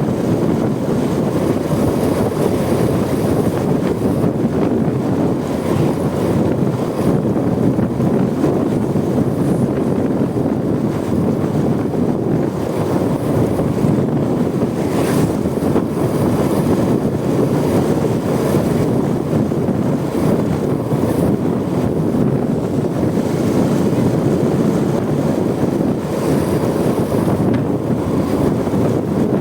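Steady wind rush buffeting the microphone on a moving motorcycle, with the Honda Supra X 125's small single-cylinder engine and road noise running underneath.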